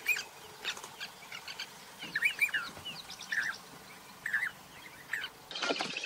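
Birds calling: short, arched whistled notes in clusters of two or three, about once a second. Near the end a busier chorus of chirping takes over.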